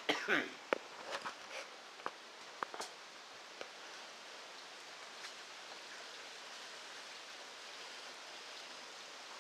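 Steady hiss of rain that has eased somewhat from a downpour, falling on wet pavement and trees. A few short knocks and clicks come in the first three seconds.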